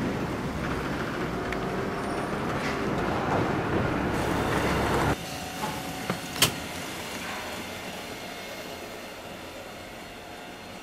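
Loud, steady rumble of passing vehicles that cuts off abruptly about five seconds in. A quieter steady background follows, with a few sharp clicks.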